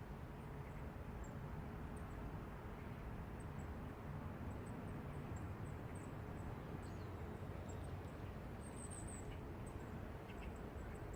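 Morning city ambience: a steady low rumble of distant traffic with a faint steady hum, and scattered high, short chirps of small birds, including a quick run of chirps about nine seconds in.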